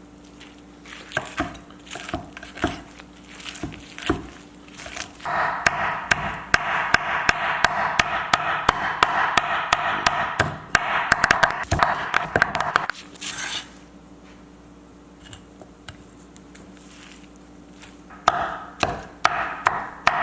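A knife chopping cooked chicken skin on a cutting board: a few separate knocks, then a run of fast chopping lasting about seven seconds, and another short run near the end.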